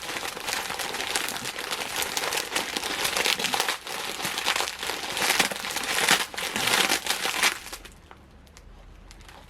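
Plastic snack bag crinkling and crackling as the dry Ppushu Ppushu noodles inside are crushed and shaken with their seasoning, dying away about eight seconds in.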